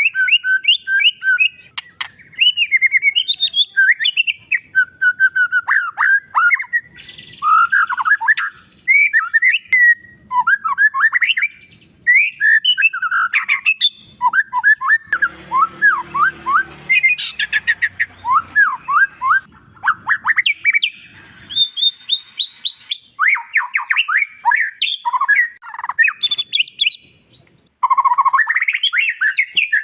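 White-rumped shama (murai batu) singing a long, varied song of quick whistled phrases and rapid chattering notes, broken by short pauses.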